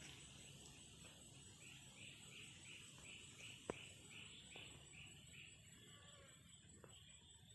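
Faint rhythmic chirping from a small animal, about three chirps a second for about four seconds, with a single sharp click near the middle over a thin, steady high tone.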